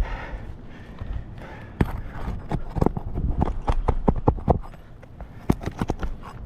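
Quick, irregular run of sharp knocks and taps, about two to three a second, from a shingle removal tool being worked under an asphalt roof shingle to free its nails.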